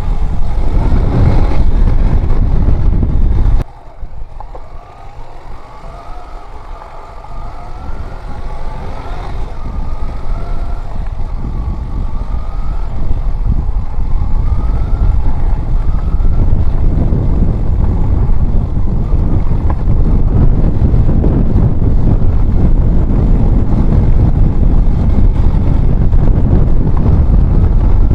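Motorcycle riding on the road, with heavy wind noise on the microphone. About four seconds in the wind noise drops abruptly. Over the next several seconds the engine is heard rising in pitch again and again as it revs up through the gears, before the wind noise builds back up.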